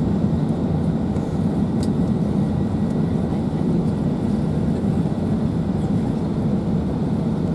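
Steady low rumble of a British Airways Airbus A380, engine and airflow noise heard inside the passenger cabin.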